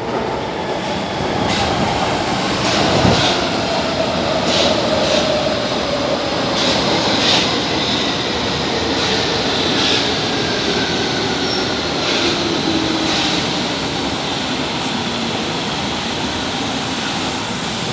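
São Paulo Metro train running through the station, its traction-motor whine falling steadily in pitch as it slows. Short, repeated high-pitched squeals from the wheels or brakes sound over the rumble of the cars.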